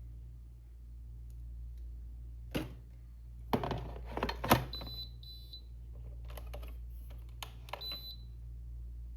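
A few sharp knocks and clatter, then three short high electronic beeps, two close together and one a couple of seconds later, over a steady low hum.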